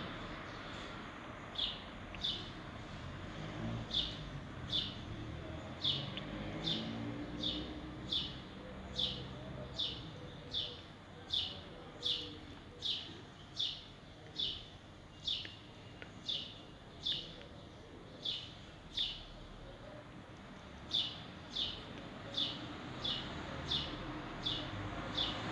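A bird repeating one short, falling chirp over and over, about one and a half times a second, with a brief pause about three quarters of the way through.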